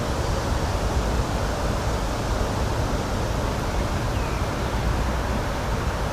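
Steady, even rushing noise of an outdoor nature ambience, heaviest in the low end and unchanging throughout.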